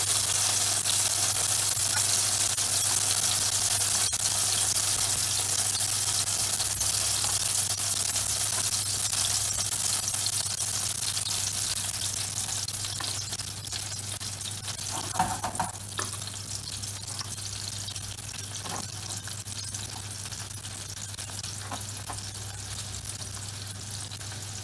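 Raw beef meatballs sizzling in hot oil in a frying pan as they are dropped in one by one: a steady frying hiss that slowly fades, with a few soft knocks about halfway through.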